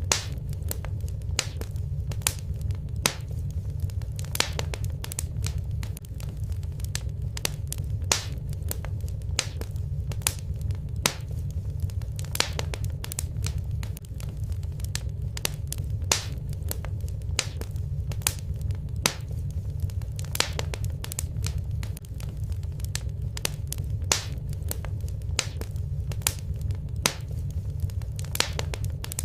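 Wood fire burning in a fireplace: sharp crackles and pops, about one or two a second, over a steady low rumble of the flames.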